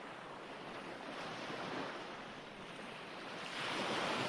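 Recorded ocean waves washing on a shore, a steady surf hiss with a wave swelling louder about three and a half seconds in.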